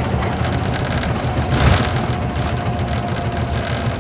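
Isuzu Gala coach's V-type diesel engine running, with road noise, heard from inside the passenger cabin; a brief louder swell about a second and a half in.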